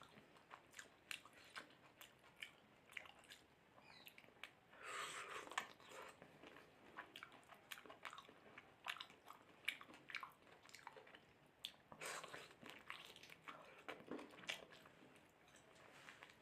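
Close-up mouth sounds of a person eating mutton curry with rice: wet chewing, lip smacks and small clicks, with louder, wetter bursts of chewing about five seconds in and again around twelve seconds in.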